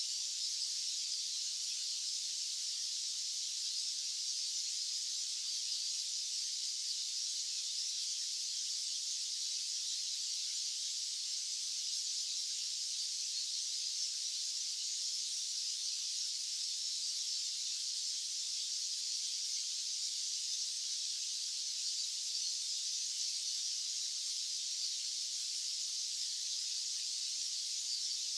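White-noise track: a steady, thin, high-pitched hiss with no low rumble, unchanging throughout.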